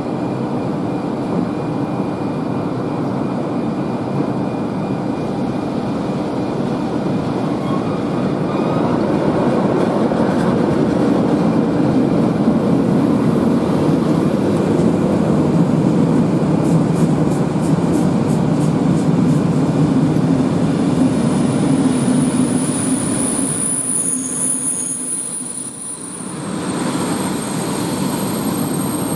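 Train running through the station, a steady rumble of wheels on rails, with a thin high wheel squeal setting in from about twenty seconds in.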